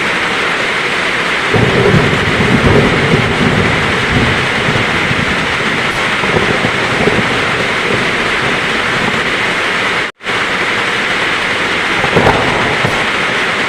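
Heavy rain falling steadily with thunder rumbling low in the background, swelling about a second and a half in and again near the end. The sound cuts out for an instant about ten seconds in.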